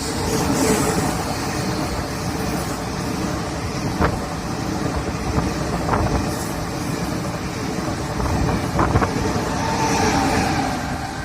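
Taiwan Railway train running past, a steady noise of wheels on rail with a few sharp knocks along the way.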